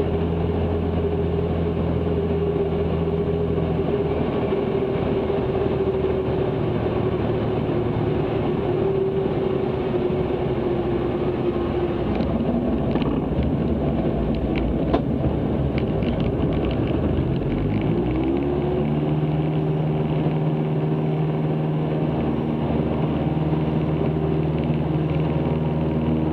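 Cessna 162 Skycatcher's four-cylinder Continental O-200 engine and propeller droning steadily in the cockpit. The pitch sags a little, turns rough for several seconds, then glides up about 18 seconds in and settles into a new steady drone: a change in engine power.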